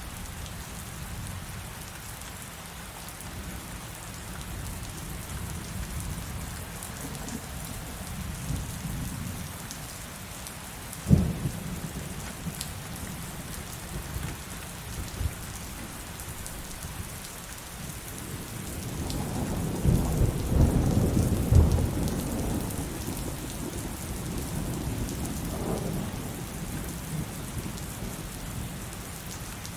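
Steady heavy rain with thunder. A single sharp thunderclap comes about a third of the way in. Past the middle, a long rolling rumble swells, peaks and slowly fades away.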